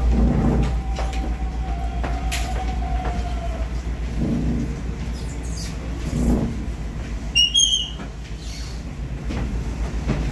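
Steady low rumble inside a KAI Commuter electric train carriage, with a faint whine that fades out in the first few seconds and a short high-pitched squeal about seven seconds in.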